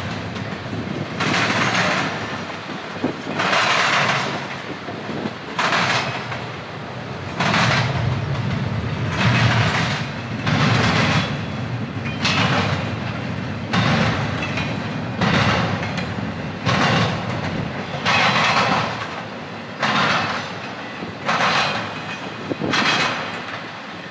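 Wheels of a passing intermodal freight train clacking over breaks in the rail, a regular clatter about every second and a half as each car's trucks go by, over a steady rolling rumble.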